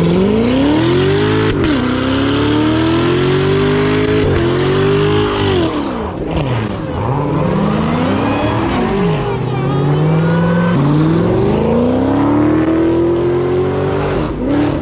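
A car engine revving hard again and again: it climbs quickly to high revs, holds there, drops back and climbs again several times.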